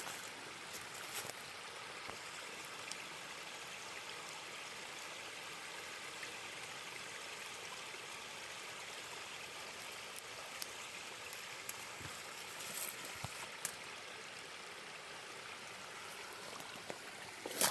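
Stream water running steadily, with a few short clicks in the second half.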